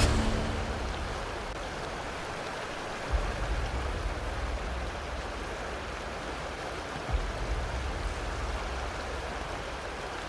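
Waterfall: a steady rush of falling water, with a low rumble coming in about three seconds in and again around seven seconds.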